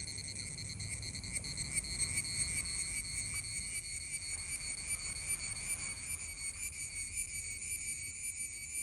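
Male cicada buzzing: a steady, high-pitched drone that holds without a break.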